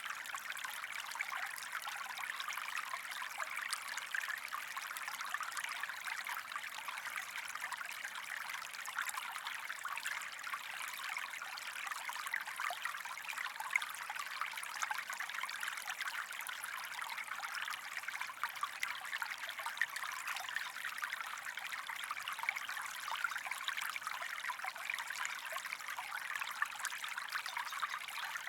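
A small stream of water trickling steadily, with many small splashes and no pauses.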